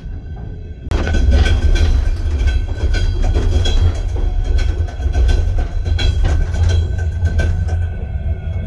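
Passenger train of Ukrainian Railways in motion, heard from inside a carriage: a steady low rumble with many rattles and clicks, which gets suddenly louder about a second in.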